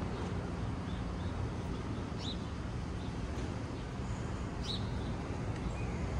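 A bird giving a few short, high chirps a second or two apart over a steady low background rumble.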